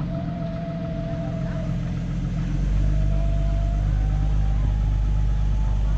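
Jeep engine running at low speed, growing louder and deeper about two and a half seconds in, with a faint whine that climbs slightly in pitch near the end.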